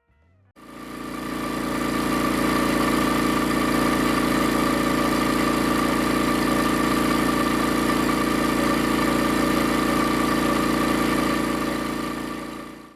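Air compressor running steadily: a hum with a fast low pulsing and a steady whine on top. It fades in within the first two seconds and fades out near the end.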